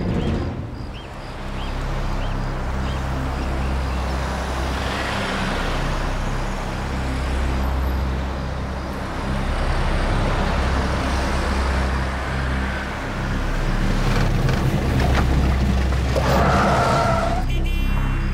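An SUV driving along a rough road: engine running and tyres rolling, with a steady low drone beneath the road noise.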